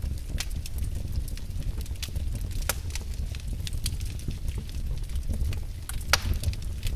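Wood fire burning in a fireplace: a low rumble of flames under a continual crackle of sharp snaps and pops, the loudest pop about six seconds in.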